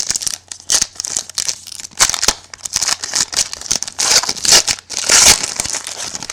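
Trading card pack wrapper being crinkled and torn open by hand, a run of irregular crackling and tearing.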